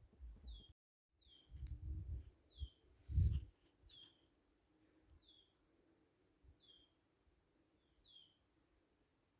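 A songbird repeating the same call about once a second, each call a short level high note followed by a lower falling slur. Low rumbles break in around two seconds in and loudest just after three seconds, and the sound cuts out for a moment near one second in.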